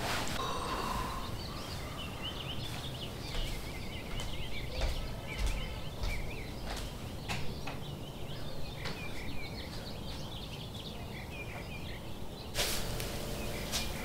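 Birds chirping outside, many short high chirps and calls with scattered clicks, and a stretch of rustling noise near the end.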